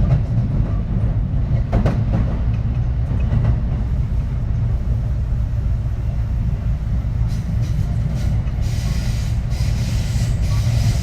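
Kintetsu 3220-series electric train running, heard from inside the car: a steady low rumble with a couple of brief clicks in the first few seconds. A hiss rises over it in the last few seconds.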